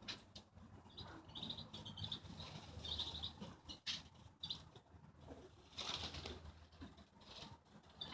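Wild birds in an aviary fluttering their wings, with several short high chirps and a louder burst of flapping about six seconds in.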